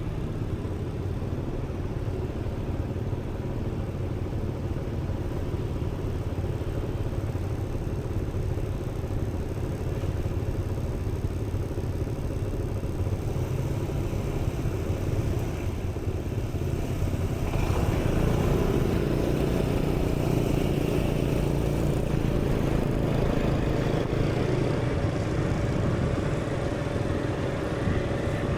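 Steady low rumble of motor vehicle traffic, growing louder about two-thirds of the way through.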